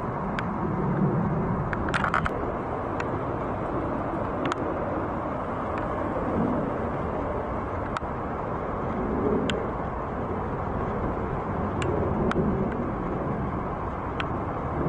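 Steady rumble of distant engines, with a few light clicks scattered through it and a short cluster of clicks about two seconds in.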